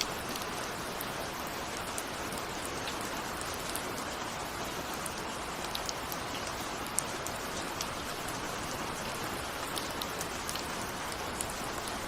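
Steady rain with individual raindrops ticking on a window, without thunder.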